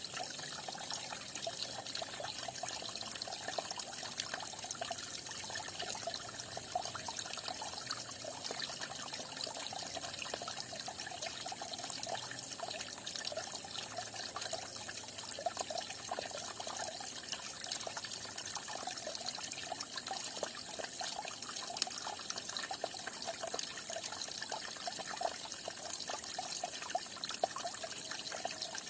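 Small stream of water falling and splashing in a steady trickle, with constant bubbling and splashing.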